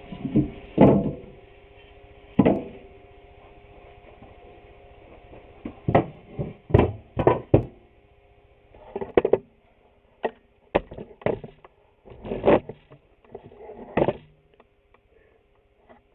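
Wooden boards and clamps being handled and knocked together while being positioned for a glue-up: a string of irregular wooden knocks and clunks.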